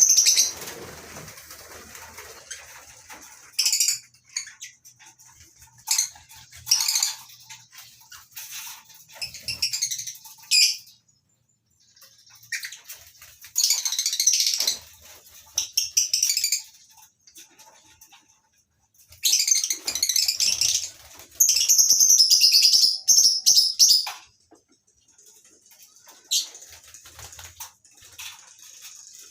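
A colony of lovebirds chattering with shrill, high-pitched calls in irregular bursts, with short lulls between them. The loudest and longest burst comes about two-thirds of the way through.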